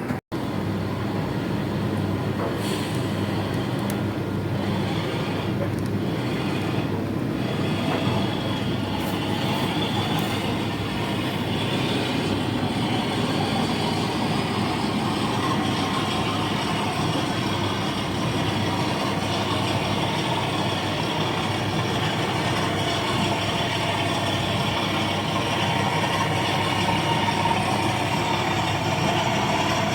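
Accurascale OO-gauge Class 37 model locomotive running on the layout with a steady running sound, a faint whine rising about halfway through. The loco is faulty: it was drawing far too much current and had to go back.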